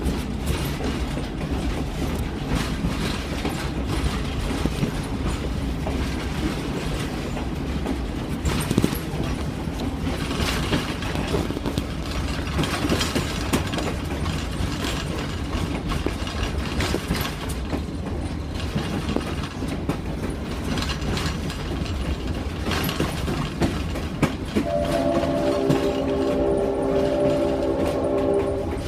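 Excursion train running along the track, a steady rumble with wheel clatter from the rails. Near the end the locomotive's horn sounds one long chord of several notes.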